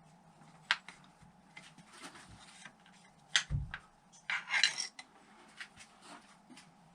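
Metal tools and small engine parts clinking and clattering as they are handled and set down. There is a sharp clink about a second in, a knock about halfway, and a short burst of rattling just after.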